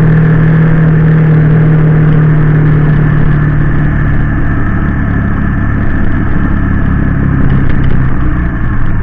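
Honda VT250 V-twin motorcycle engine running while the bike is ridden. The engine tone is steady at first, then drops lower about three seconds in and stays loud.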